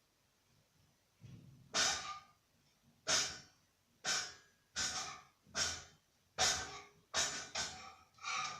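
A person breathing in short, quick puffs, about ten in a row with brief quiet gaps between them.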